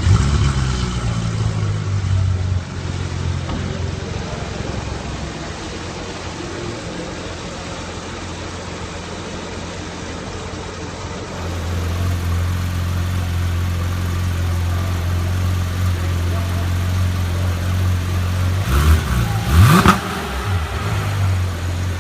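Supercar engine starting up and settling into a steady, low idle that grows louder about halfway through, then one quick sharp rev near the end.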